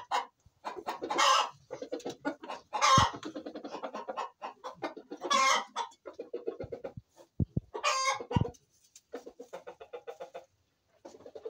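Chickens clucking in quick runs, broken by four loud short calls from the birds. A few dull low thumps sound among them.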